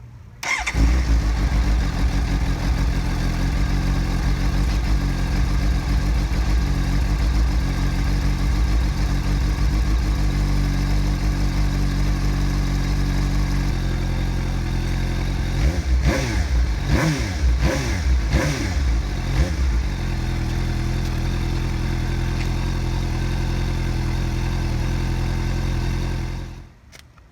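2018 Suzuki GSX-S750's inline-four engine starting, then idling steadily. About two-thirds of the way through, the throttle is blipped several times, rising and falling, before the engine settles back to idle and is shut off near the end.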